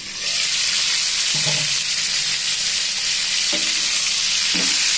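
Stuffed green bell peppers frying in hot oil in a pan, a steady sizzle that grows sharply louder about a third of a second in as the pan goes from covered to uncovered.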